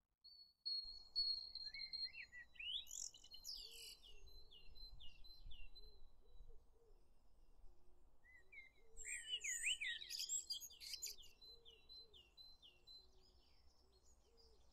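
Songbird singing two phrases, each a quick warble followed by a run of short repeated falling notes, over a faint background of low repeated calls.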